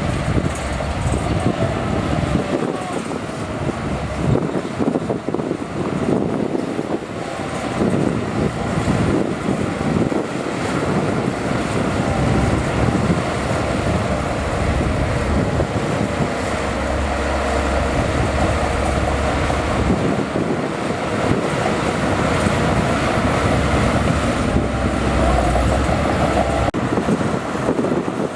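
Bulldozer's diesel engine running continuously at work, with a heavier low rumble in two stretches in the second half.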